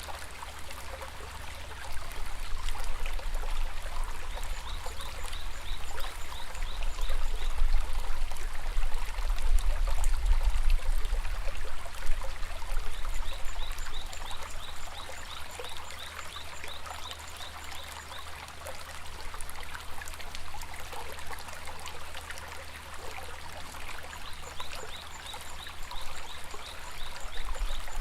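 Shallow stream babbling steadily, the rush swelling louder in the middle. A few short trains of rapid high chirps come through the water noise, about a quarter of the way in, around the middle, and near the end.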